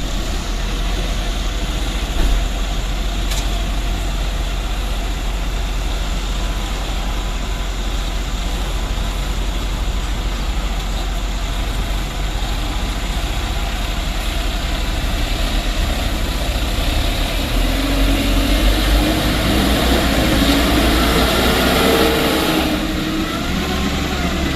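Heavy vehicle engine running steadily, growing a little louder with some wavering pitch in the last several seconds.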